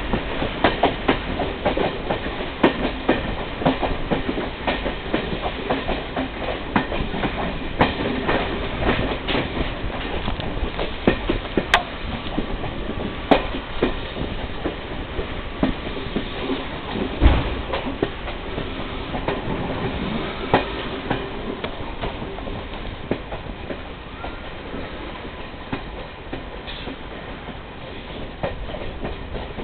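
Passenger train running, its wheels clacking over the rail joints with a steady rumble and irregular sharp knocks, easing off slightly near the end.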